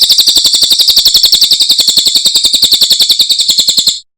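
Cililin bird singing one long, rapid, high trill of about fourteen notes a second, even and sustained, which stops abruptly near the end.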